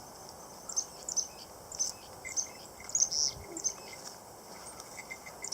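Small wild birds giving a scattered series of short, very high chirps, some sweeping downward, the loudest about three seconds in.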